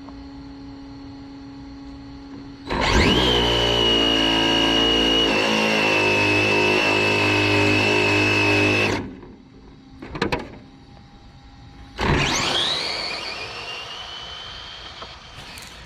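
Electric motor of a Losi 22S RC drag car whining under throttle: a sharp rise to a steady high whine held for about six seconds, then a sudden cut-off. Near the end a second run rises in pitch and fades away.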